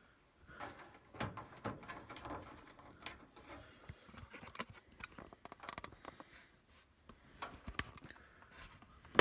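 Scattered light clicks and rubbing from hands handling parts of a dryer at close range, irregular and soft, with one sharper click at the very end.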